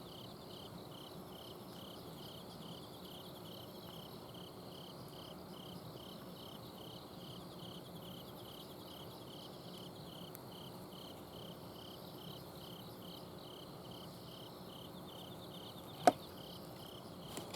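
Autumn crickets chirping at night in an even pulsing rhythm, about two chirps a second, over the low steady hum of an air-conditioner's outdoor unit. A single sharp click sounds near the end.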